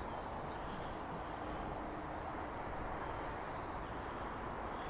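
Steady outdoor background hiss with faint, scattered bird chirps from small birds in the trees.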